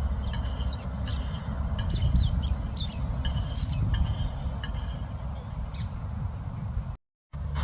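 Birds chirping and calling repeatedly over a steady low road-traffic rumble, with a brief silent gap near the end.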